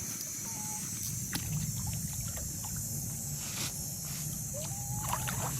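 Steady riverside background noise: a low rumble with a constant high hiss, a few faint clicks and a couple of faint brief whistles.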